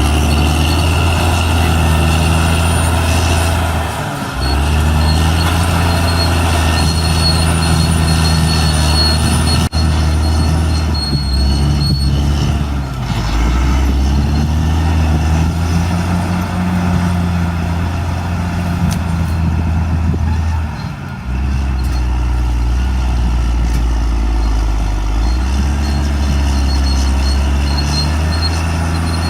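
Caterpillar D6R XL bulldozer's diesel engine running hard, its pitch sagging and recovering several times as the load changes, with a steady high whine above it.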